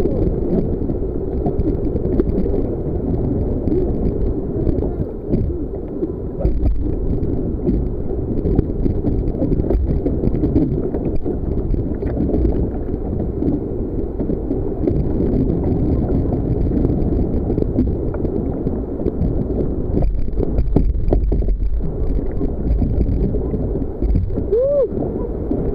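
Steady sloshing and gurgling water around a sea kayak, with small bubbling warbles throughout.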